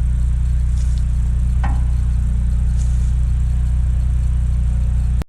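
Electric motor of a 14-inch low-rpm carbide chop saw running free with a steady low hum. A brief falling squeak comes about a second and a half in.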